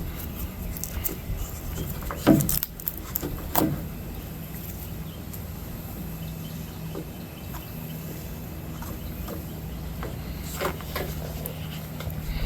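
A few sharp clicks and light clatters from handling tools or parts, about two and four seconds in and again a small cluster near the end, over a steady low hum.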